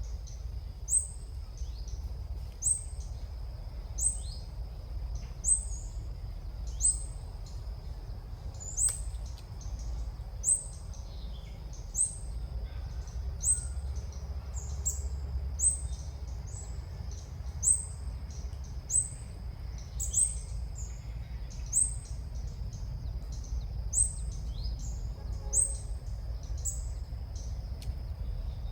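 A female ốc mít bird's call: a short, high, rising chirp repeated at a very even pace, about once every second and a half. A steady thin high whine runs underneath.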